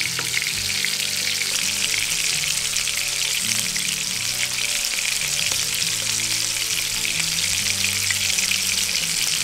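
Duck breasts frying in hot bacon grease in a nonstick pan, the second side searing after the flip. The fat gives a steady sizzle with a fine, irregular crackle.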